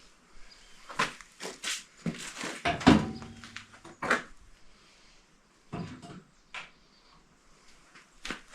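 Irregular metallic knocks and clinks of the lift cylinder, its mounting pin and washers being handled and fitted into the mount. The loudest knock comes about three seconds in and rings briefly.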